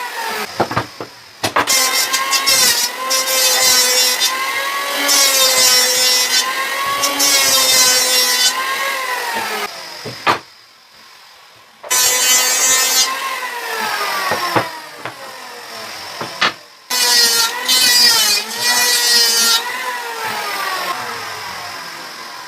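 Electric power tool running while working wood, its motor whine dipping and rising in pitch as the load changes, with a hissing cutting noise. It stops for about two seconds near the middle and cuts out briefly again later.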